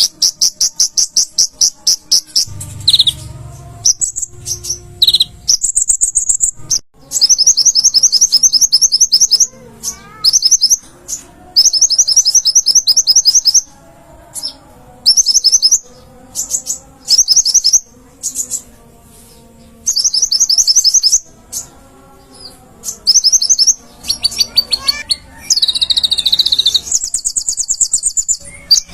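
Olive-backed sunbird (kolibri ninja) singing loudly: bursts of rapid, high trills of repeated notes, each lasting a second or two, with short pauses between.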